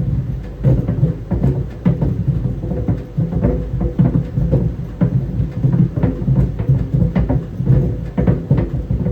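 Tennis balls tumbling in a clothes dryer drum, thudding irregularly several times a second over the steady hum of the running dryer.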